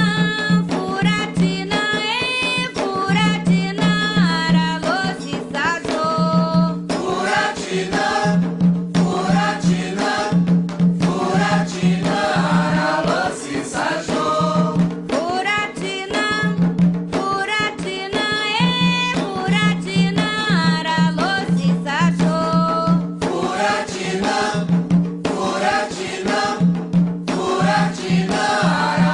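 Afro-Brazilian ritual chant for the orixás: voices singing in Yoruba over steady percussion.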